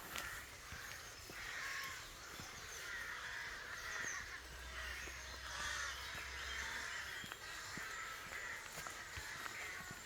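Crows cawing over and over, harsh calls following one another about once a second.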